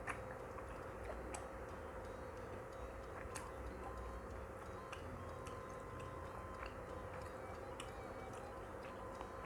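Chewing gyoza dumplings, with scattered sharp mouth clicks over a faint steady hum.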